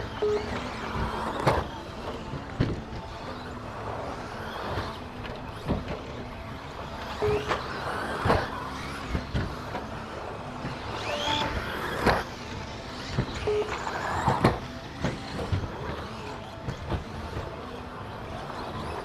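2WD electric RC stadium trucks racing on a turf track: motor whine rising and falling, with frequent sharp knocks as the trucks land jumps and hit things. A few short electronic beeps come through now and then.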